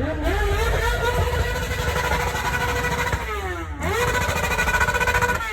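Motorcycle engine revved up and held at high revs, dropping back briefly about three seconds in, then revved up again and held.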